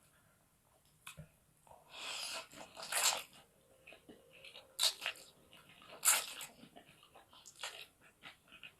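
Close-miked eating sounds: a person chewing and crunching food in irregular, uneven bursts, several of them sharp and loud.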